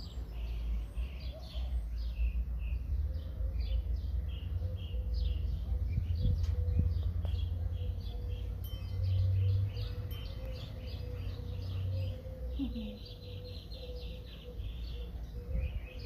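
Small birds chirping in quick runs of short, high notes, with a denser buzzy twitter near the end, over a constant low rumble and a faint steady hum.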